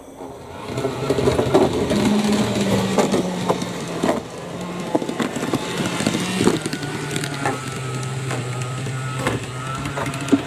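Eidai Nine KiHa 40 model railcar's small electric motor running as it travels along the track, a steady whirring hum shifting slightly in pitch, with irregular clicks.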